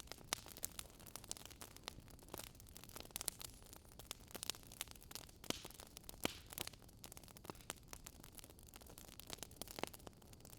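Wood fire crackling: irregular sharp pops and snaps over a faint hiss.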